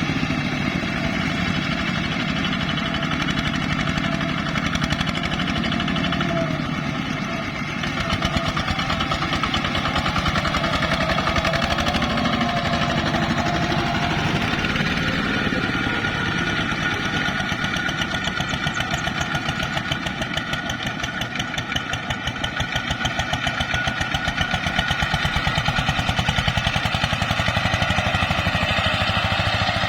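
ZT 155 tractor engine running steadily with a fast, even chugging, dipping briefly about eight seconds in and changing pitch about halfway through.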